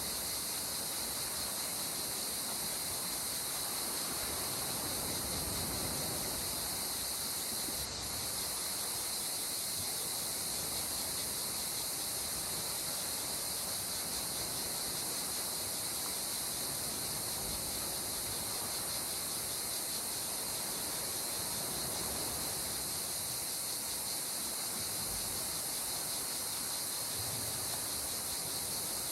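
Gentle sea water washing and lapping in soft, slow swells, under a continuous high-pitched insect chorus.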